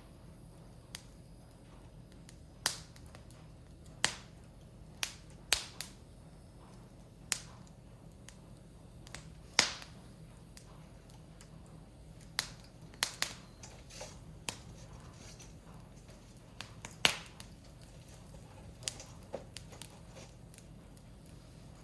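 Firewood burning in a Picogrill fire pit, crackling with sharp, irregular pops about one a second. The loudest pops come about ten and seventeen seconds in.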